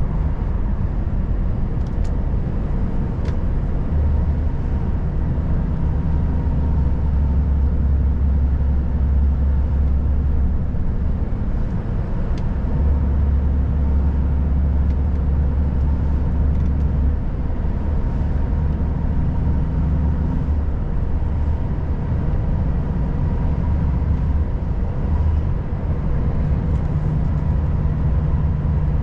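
Volvo FH540 truck's 13-litre straight-six diesel running under way, a steady drone whose low note swells and eases several times.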